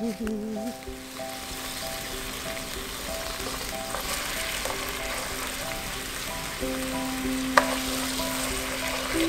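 Sliced onions and dried chillies sizzling in hot oil in a nonstick wok as a wooden spatula stirs them. The steady sizzle sets in about a second in, and there is a single sharp tap about three-quarters of the way through.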